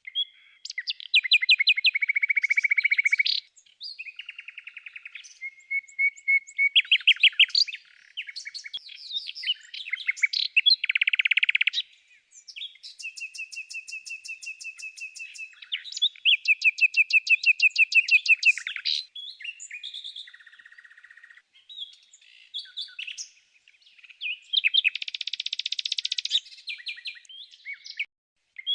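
A bird singing a long, varied song of rapid trills and repeated chirps, in phrases of a few seconds broken by short pauses.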